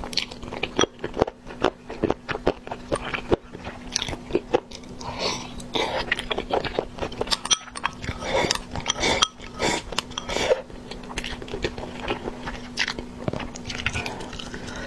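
Close-up eating sounds: chewing and biting soft noodles and rice cakes, with wet mouth clicks and smacks, and sipping from a bowl in the middle stretch.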